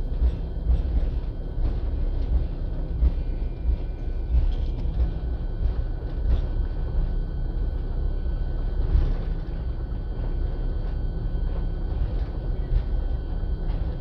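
Inside a passenger jet's cabin during takeoff: a steady low rumble from the engines and airframe that bumps unevenly in loudness, with a few faint steady high tones above it.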